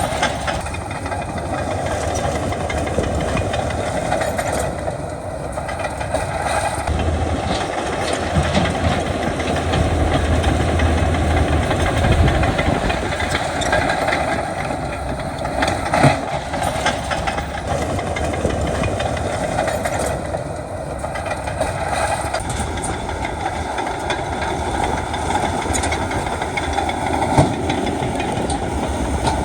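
Heavy diesel earthmoving machinery running steadily under load, with a low rumble and a few sharp knocks, the loudest near the end.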